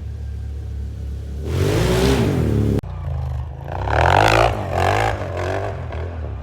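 Can-Am Renegade 800 ATV's V-twin engine through an HMF performance exhaust, idling and revved twice: a short rev about a second and a half in that cuts off suddenly, then a longer rev that rises and falls near the middle before settling back to idle.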